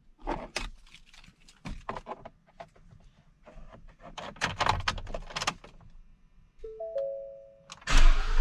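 Clicks, knocks and key jangling in the truck's cab, then a short electronic chime about six and a half seconds in. Near the end the Ford F450's 7.3 L Godzilla gasoline V8 is started and begins running.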